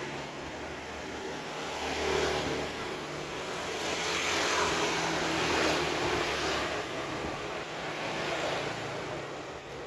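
Motor vehicle traffic going by: a steady engine hum with a broad rush that swells about two seconds in and again in the middle, as vehicles pass.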